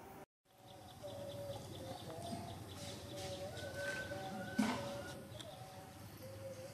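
Birds calling: several long, wavering whistled tones overlapping. A single sharp knock comes about two-thirds of the way through.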